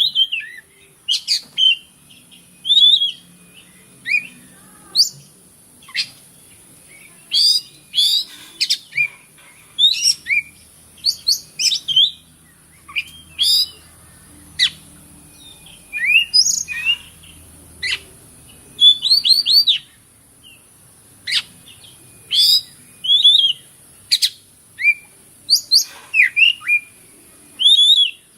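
Oriental magpie-robin (kacer) singing loud, varied phrases of short sharp whistles and quick chattering notes, with brief pauses between phrases, over a steady high-pitched hiss.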